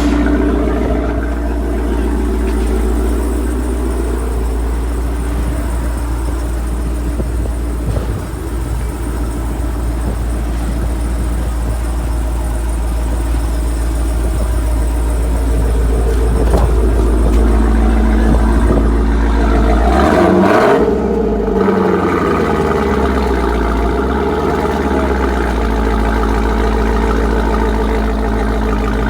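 Supercharged 6.2-litre Hemi V8 of a Dodge Durango Hellcat running through an aftermarket exhaust: a steady deep idle, blipped up and back down about two-thirds of the way through.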